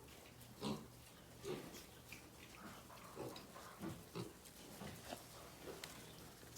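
An animal making about a dozen short calls at irregular intervals, over a steady low hum.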